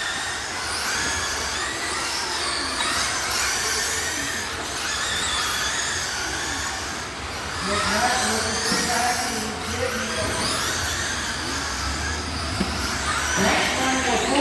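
Several radio-controlled race cars running on a track, their motors overlapping in a high-pitched whine that keeps rising and falling as they speed up and slow down.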